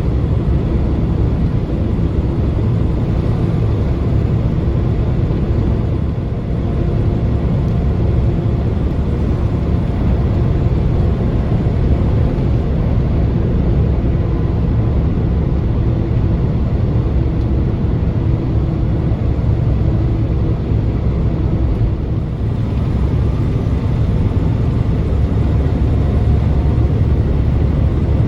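Steady low rumble of engine and road noise inside a moving vehicle's cab while driving.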